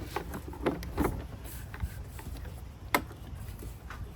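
A few scattered clicks and knocks of plastic intake parts, vacuum lines and clips being handled and pulled loose in a car's engine bay, the sharpest click about three seconds in.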